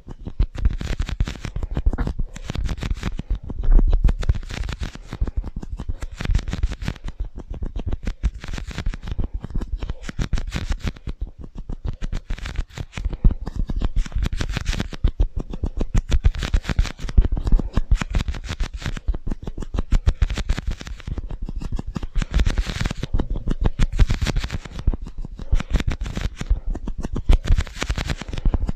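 Rapid tapping, clicking and scratching on two drink cups, a dense, continuous run of short clicks with scratchy stretches, played through an echo effect.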